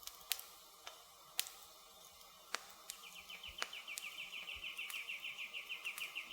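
Campfire wood crackling with sparse, sharp pops. About three seconds in, an insect starts a rapid, high trill of about nine pulses a second that keeps going.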